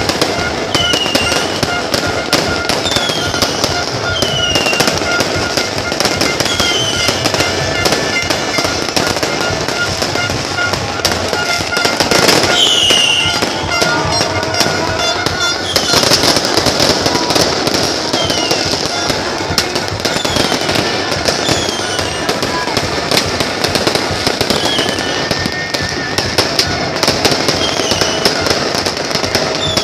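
New Year fireworks going off continuously in dense crackling and popping, with short falling whistles every second or two and a louder burst about halfway through.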